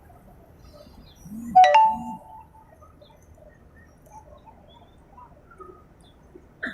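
Birds calling: two short low arched notes, and at the same moment a loud brief ringing note about a second and a half in, then only faint scattered chirps.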